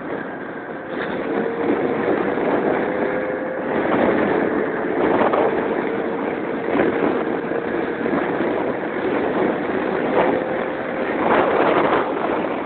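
Keeway Hurricane scooter engine running while riding, its note holding steady and rising slowly, over a constant rush of noise.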